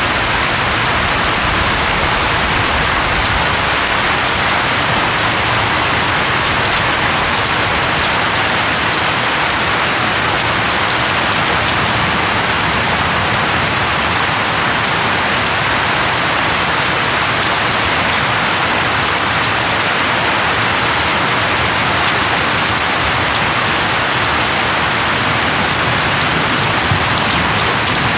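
Steady rain falling on a surface, a dense even patter with no let-up.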